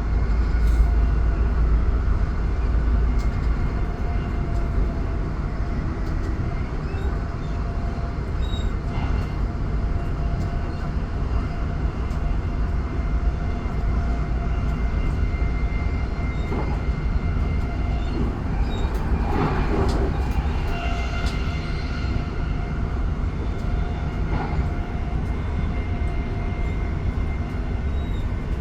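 Electric passenger train running along the line, heard from inside the carriage. It gives a steady low rumble with a faint steady whine over it.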